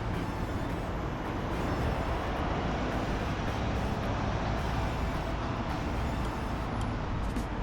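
Steady city road traffic: the mixed engine rumble and tyre noise of passing cars, buses and trucks.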